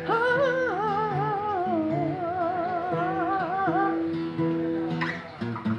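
Acoustic guitar played with held, picked notes. For about the first four seconds a wordless sung vocal with vibrato runs over it.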